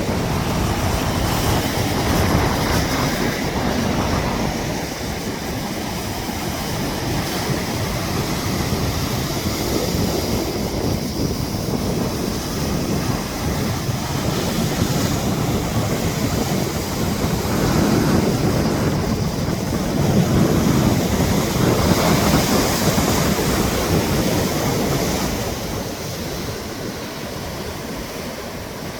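Sea waves washing onto the shore in slow, rising and falling swells, with wind buffeting the microphone. Loudest toward the last third, then easing off near the end.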